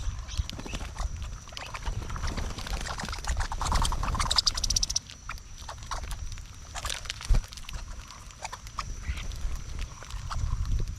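Birds at an outdoor feeder: irregular taps and knocks of birds landing and pecking, over a low wind rumble on the microphone, with a short buzzy call about four seconds in.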